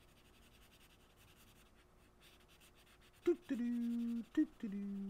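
Felt-tip marker rubbing faintly on paper as it colours in. About three seconds in, a voice hums a short tune of a few held notes.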